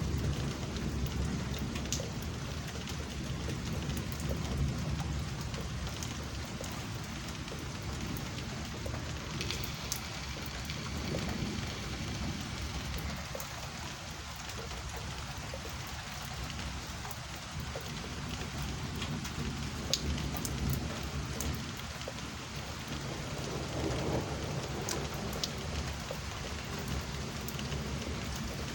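Steady rain falling in a thunderstorm, with sharp ticks of drops hitting close by. Low thunder rumbles underneath, swelling now and then.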